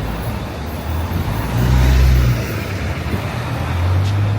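City street traffic: low engine rumble of passing vehicles, with a heavier vehicle swelling loudest about two seconds in and another near the end.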